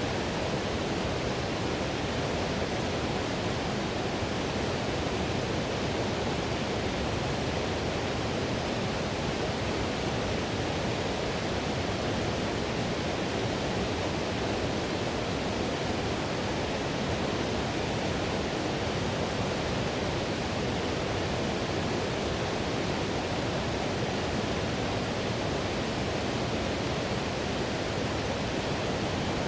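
Whitewater river rushing over rapids: an even, unbroken rush of water, fullest in the low and middle range.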